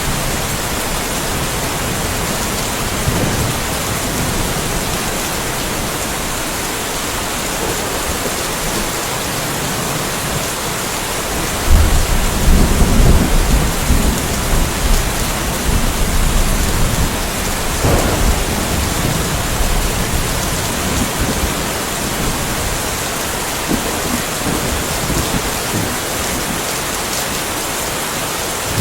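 Steady rain falling, with a roll of thunder that breaks in suddenly about twelve seconds in and rumbles for several seconds, and a short sharper crack a little later.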